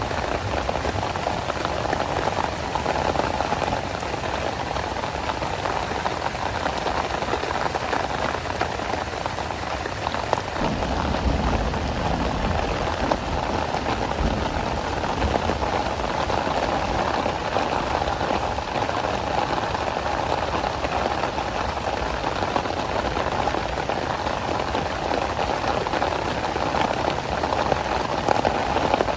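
Steady rain falling and striking a close surface in a dense patter of drops. About ten seconds in, a low rumble joins underneath and stays.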